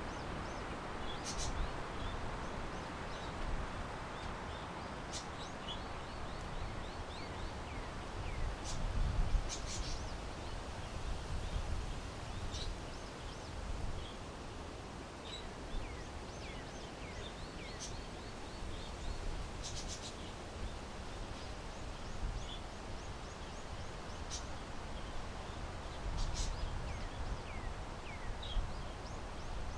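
Small birds chirping over and over in short high calls, over a steady rumble of wind on the microphone. A few sharp clicks are scattered through it.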